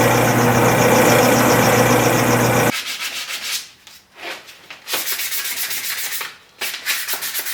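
A power tool's motor running steadily with a regular pulse and then cutting off abruptly a little under three seconds in. It is followed by irregular short rasping scrubbing strokes as rusty, old-grease-caked steering column parts are cleaned.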